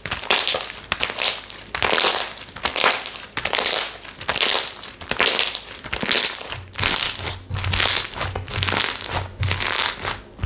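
Textured slime being squeezed and pressed by hand in repeated squeezes, each one a short burst of crackly noise, about one to two a second. A low hum joins after about six seconds.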